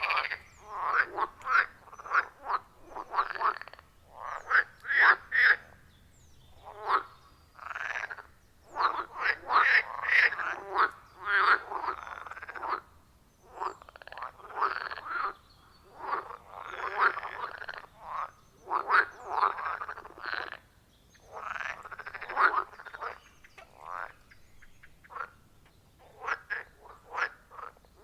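Chorus of frogs croaking at a pond: bouts of rapid, pulsed calls overlapping one another, with short pauses between bouts.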